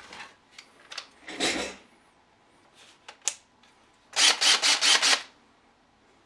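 Clicks and knocks of tools and parts being handled, then about a second of loud, rapid clattering, five or six strokes in quick succession.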